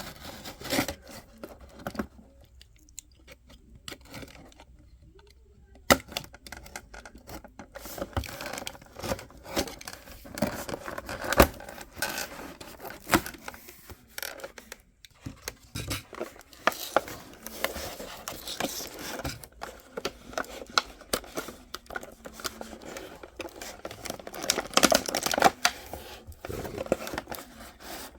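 Hot Wheels monster truck set packaging being pulled and torn open by hand: irregular rustling and scraping with many sharp clicks and snaps, quieter for a few seconds early on, then busier, with loud snaps about 6 and 11 seconds in.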